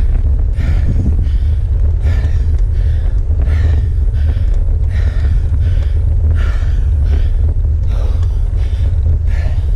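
A cyclist breathing hard through a steep climb: loud, regular panting of about one breath every three quarters of a second, the sound of heavy exertion. A steady low rumble runs underneath.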